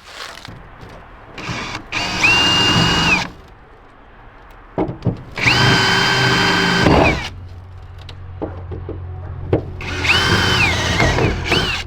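A power drill runs in three short spells, each a second or so long, at a steady pitch that drops as the trigger is released, most likely backing fasteners out of the truck body. A low steady hum sits underneath in the second half.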